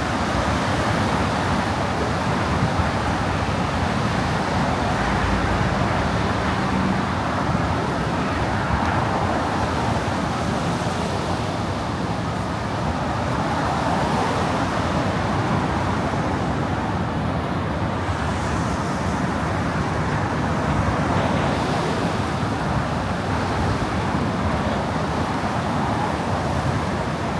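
Steady traffic noise of cars running over a rain-wet roadway, their tyres hissing on the wet surface.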